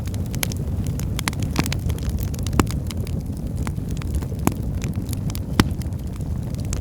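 Firewood burning in a fireplace: a steady low rumble of flame with constant crackling and snapping, and three louder pops in the second half.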